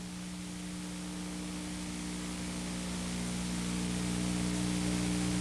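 Steady rushing noise of arena ambience with a low steady hum under it, rising slowly in level as the broadcast sound fades back in.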